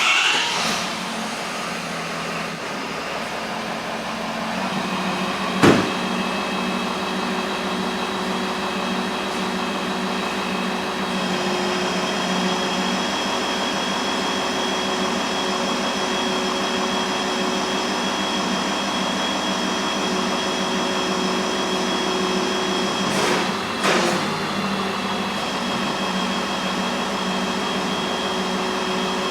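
Steady mechanical drone with several constant whining tones, like a motor or blower running. There is a sharp knock about six seconds in and a couple of brief bumps near the three-quarter mark.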